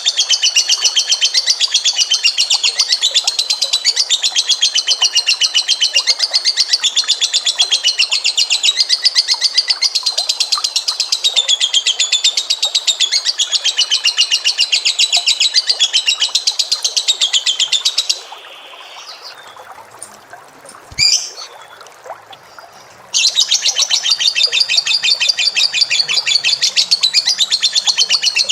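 A small cage bird giving a long, very fast, high-pitched trill for about eighteen seconds, breaking off for a few seconds with a single short call, then starting the fast trill again.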